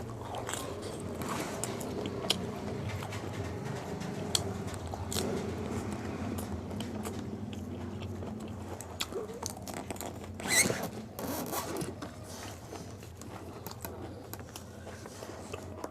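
Close-up eating sounds of pani puri: crisp puri shells biting, crunching and being chewed, with scattered short clicks and a louder crunching burst about ten and a half seconds in.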